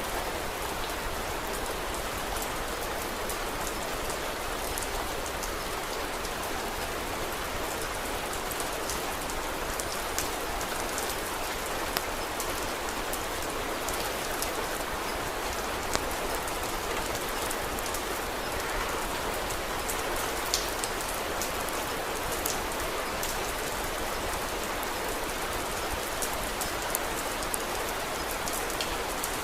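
Steady rain falling, with scattered sharp crackles from a wood fire.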